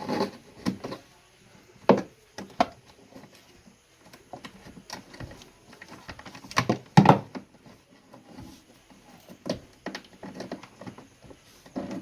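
Irregular knocks, taps and clatter of hands and tools working on a washing machine during a wiring repair, the loudest burst of clatter about seven seconds in.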